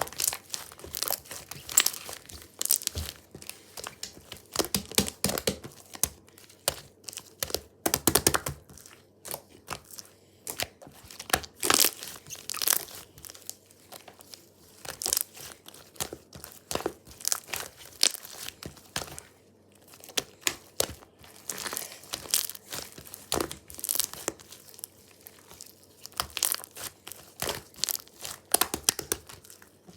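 Paper being handled and folded by hand: irregular crinkling rustles in clusters, some sharper than others.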